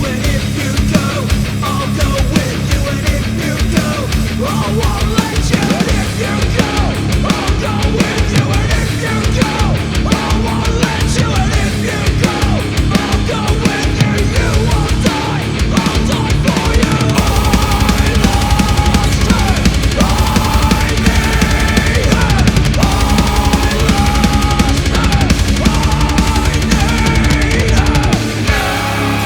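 Black metal recording with distorted guitars, bass and fast, dense drumming; about two-thirds of the way through the section shifts, with a heavier low end and held guitar notes.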